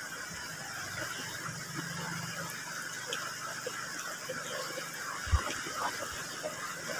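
A person chewing and picking at spicy chicken feet with the fingers, small wet clicks and smacks over the steady rush of a shallow river. A single sharp low thump about five seconds in.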